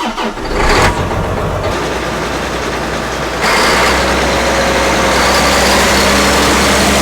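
Tractor engine running steadily, getting louder about three and a half seconds in.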